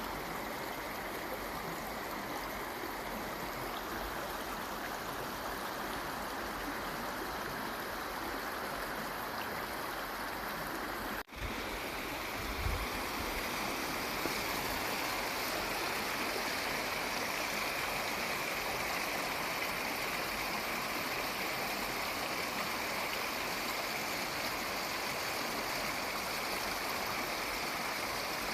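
Waterfall water rushing steadily. The sound drops out for an instant about eleven seconds in, then comes back slightly louder, with a short low bump a second or so later.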